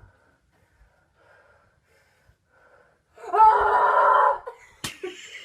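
A loud, breathy vocal outburst about a second long, about three seconds in, followed by a single sharp click.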